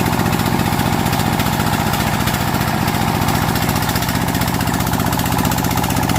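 Engine of a homemade timber-hauling truck running steadily, with a rapid, even pulse of firing strokes.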